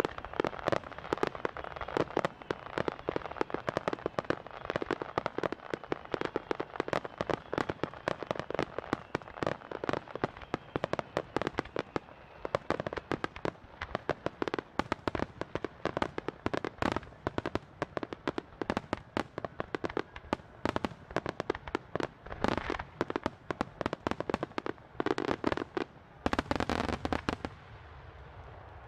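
Starmine fireworks barrage: aerial shells launched and bursting in rapid succession, a dense run of bangs several a second. Near the end come spells of dense crackling, then the bursts stop shortly before the end.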